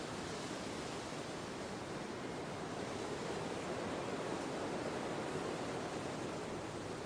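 Steady wind, an even rushing noise with no distinct events.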